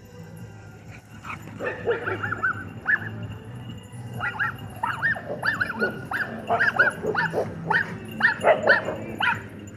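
A dog barking and yipping in a quick run of short, high calls, starting about a second in and lasting almost to the end.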